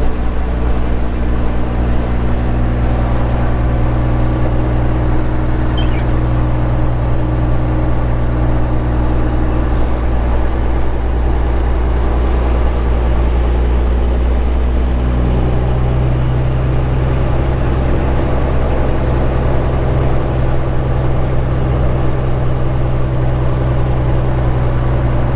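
Straight-piped Caterpillar 3406E diesel truck engine running steadily under way, a loud low drone whose pitch shifts about halfway through. A faint high whistle rises and falls over the second half.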